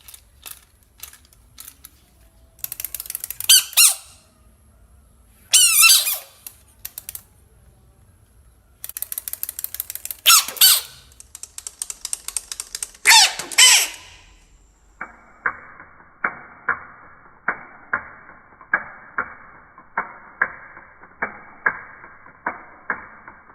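A frog's screams: four loud, harsh cries whose pitch bends up and down, among trains of rapid clicking. Then, from a little past halfway, an even series of sharp clicks about twice a second.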